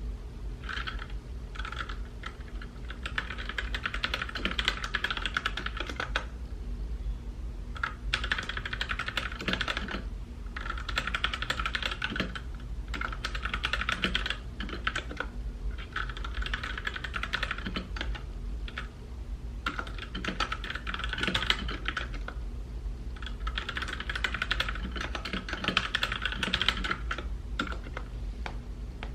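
Typing on a mechanical keyboard, keys clacking rapidly in runs of a couple of seconds with short pauses between them, over a low steady hum.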